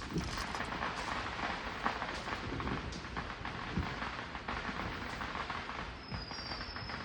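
Firework crackling steadily, a dense stream of small pops close together.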